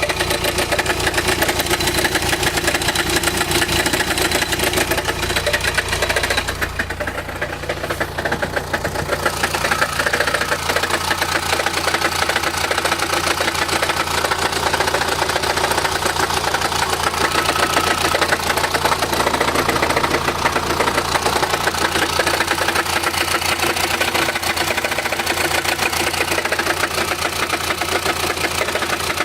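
Chrysler Grand Voyager 2.8 CRD four-cylinder common-rail diesel idling with a rattling rumble. The rattle is caused by a badly cracked flexplate between the crankshaft and the torque converter.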